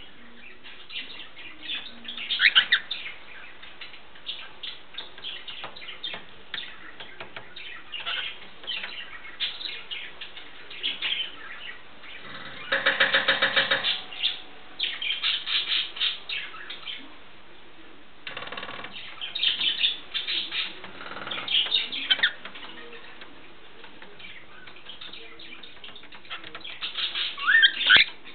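A small pet bird tapping with its beak in quick runs of clicks, mixed with short chirps and a burst of rapid buzzy chatter about halfway through.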